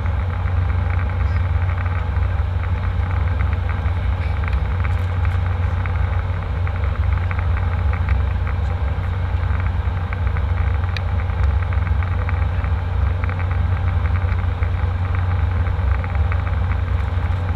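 Airliner cabin noise: a steady low rumble of the jet engines and air conditioning with an even hiss over it.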